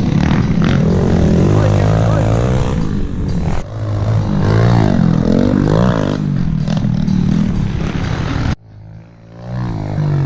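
Small four-stroke pit bike engines revving up and down as riders lap a dirt track. The sound changes abruptly about three and a half seconds in, and again near the end, where it drops suddenly to a quieter engine that then builds back up.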